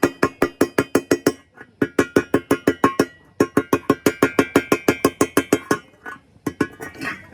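Metal struck rapidly with a hammer, about seven ringing blows a second, in three runs with short pauses between, thinning out near the end.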